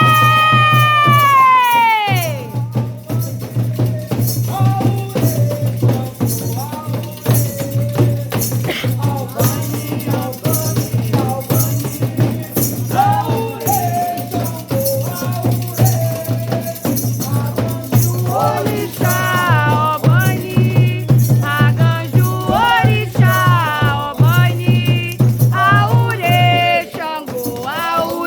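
Candomblé ritual music: singing voices over continuous fast shaking of rattles, with a long call sliding down in pitch near the start and the singing growing stronger in the second half.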